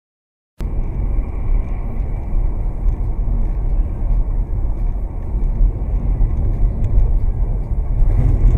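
Car driving, heard through a dashcam: steady low road and engine rumble that cuts in abruptly about half a second in.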